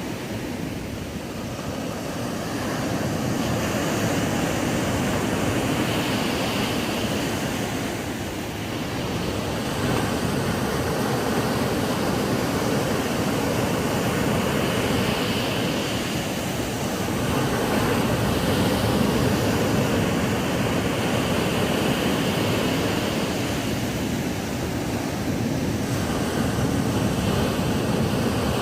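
Ocean waves breaking and washing up a sandy beach: a continuous surf hiss that swells and eases every few seconds.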